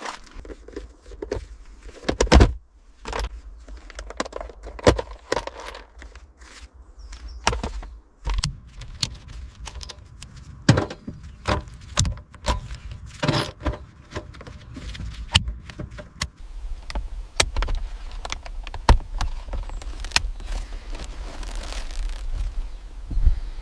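A busy run of sharp clicks, knocks and clanks, irregularly spaced, over a low steady hum.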